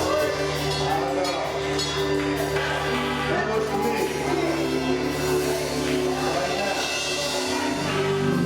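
Gospel choir singing with live instrumental backing over a held bass line; the low bass note changes near the end.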